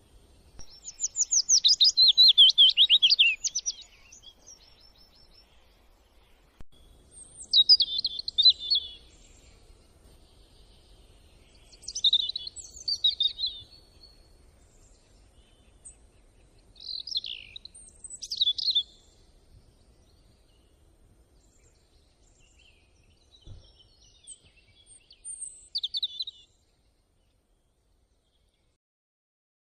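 Birdsong: a fast trill of rapid high notes for a few seconds, then short chirping phrases every four to five seconds over faint outdoor background noise. The sound cuts off suddenly near the end.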